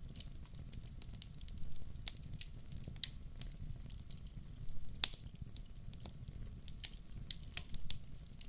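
Wood fire crackling in a fireplace: irregular small snaps and pops over a low, steady rumble of flames, with one sharper pop about five seconds in.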